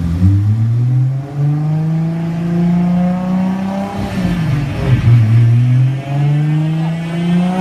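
Turbocharged Toyota Supra engine accelerating hard, its pitch climbing. The pitch drops at a gear change about four to five seconds in, then climbs again through the next gear.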